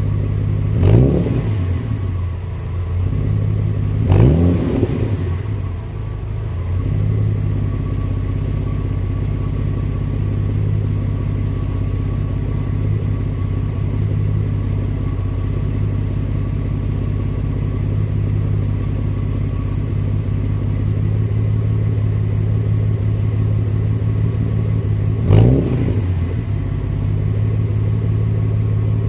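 Straight-piped Mercedes W124 300E straight-six exhaust idling steadily, with three quick throttle blips: two close together near the start and one more near the end.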